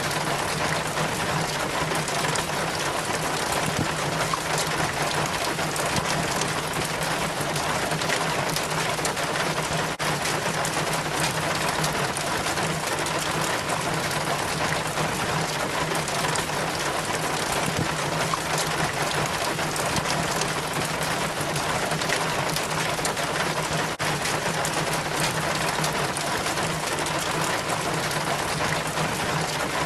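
Rainwater running down a rain chain from the gutter, a steady trickling and splashing of many small drops.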